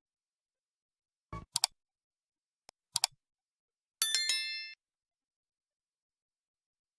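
A few sharp clicks, the first pair with a soft low thump, then two more clicks, followed by a short, bright bell ding that rings and fades within about a second.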